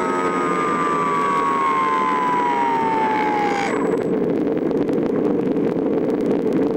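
A motor's whine falling steadily in pitch, as if spinning down, that cuts off suddenly about halfway through, over a steady rushing noise like wind.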